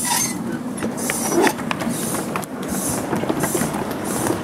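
Miniature ride-on railway train moving along the track, its wheels clicking on the rails, with a hissing puff repeating regularly a little under a second apart.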